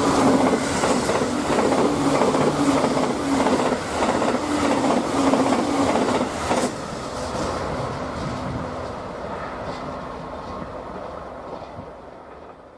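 N-gauge model train running on the track: a steady motor whine under dense clicking of the wheels over the rail joints, fading out toward the end.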